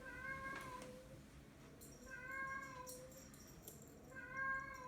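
Recorded cat yowling played from an Amazon Echo smart speaker: three drawn-out meows of much the same shape, about two seconds apart.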